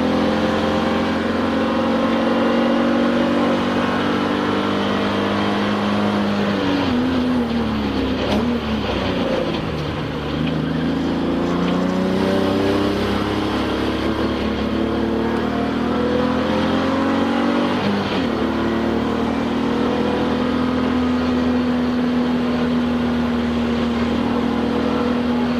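Touring race car's engine heard from inside the cockpit under hard running, its pitch climbing slowly. About seven seconds in the pitch drops sharply and swings before climbing again, dips briefly once more later, then holds fairly steady near the end.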